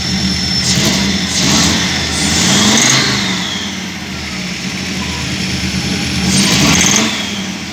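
Audi 100 C3's 2.0-litre five-cylinder petrol engine blipped twice from idle, rising and falling in pitch each time. The owner says it has started misfiring and knocks under throttle, a knock he likens to piston pins.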